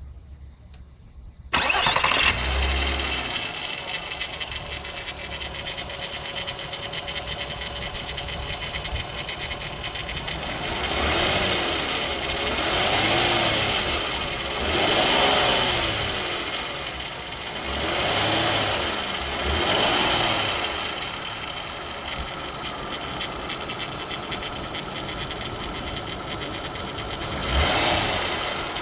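VW Bora V6 4motion's 2.8 VR6 petrol engine starting about a second and a half in, then idling. In the middle it is revved in about five short blips that rise and fall, then idles again, with one more blip near the end. The owner questions whether a noise in it is a fault.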